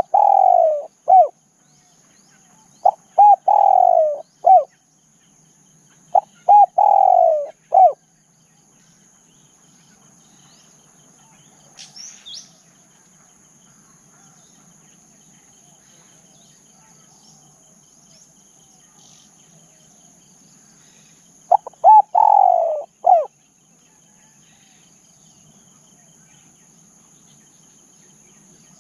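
Spotted dove cooing: four phrases, three in the first eight seconds and one about 22 seconds in, each made of short coos around a long coo that slides down in pitch. A steady high-pitched insect drone runs underneath.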